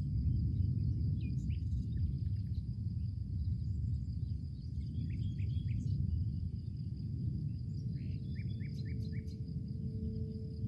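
Nature soundscape: a steady high insect drone over a low rumble, with scattered short bird chirps. A low steady tone comes in near the end.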